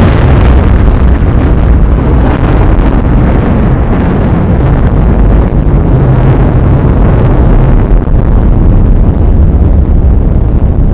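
Heavy rainstorm with strong wind buffeting the microphone: a loud, steady rush that is heaviest in the low end.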